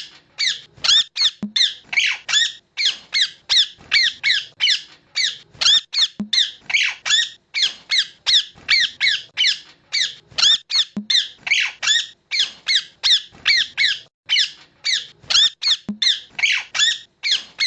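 Pet parrot calling over and over in short, shrill, upward-sliding squeaks, about three a second without a pause, which the owner takes for hunger.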